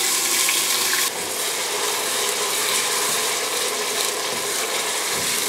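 Onion paste sizzling in hot ghee in a steel pot as it is stirred with a wooden spoon: a steady hiss that drops a little about a second in.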